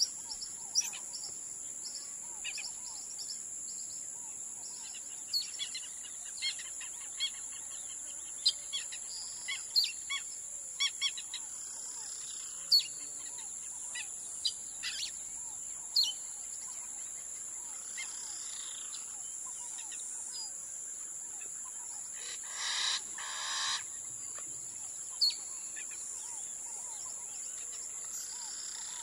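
Wild birds calling: scattered short, sharp chirps and tweets, and a louder, rougher call in two parts lasting about a second and a half, a little past the three-quarter mark. A steady high-pitched whine runs underneath.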